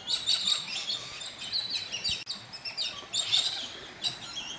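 Several small birds chirping and twittering at once, a dense run of short, high, overlapping calls.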